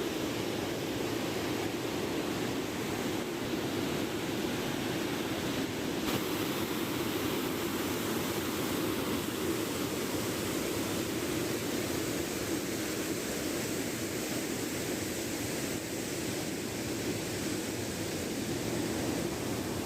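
Steady rush of falling water from a mountain waterfall, an even roar with no breaks; a little more hiss joins about six seconds in.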